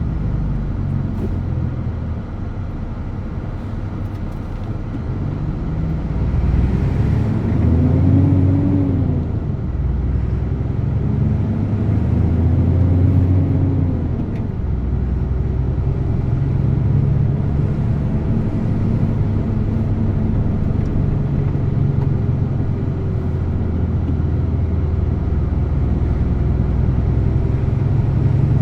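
DAF truck's diesel engine running under way. Its pitch rises twice as it pulls up through the revs, from about six seconds and again from about eleven seconds, then drops back each time, as at a gear change.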